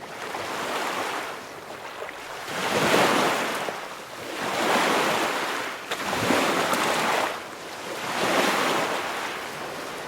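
Sea waves washing in and breaking, the sound swelling and easing about every two seconds.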